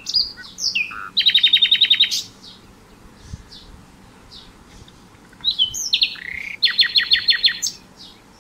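A songbird singing two phrases, each a few clear gliding whistles followed by a fast run of repeated notes, with faint short chirps in between.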